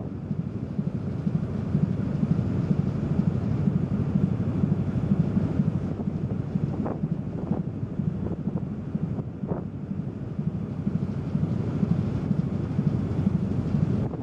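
Wind buffeting the microphone aboard a car ferry under way, over the ship's steady low rumble.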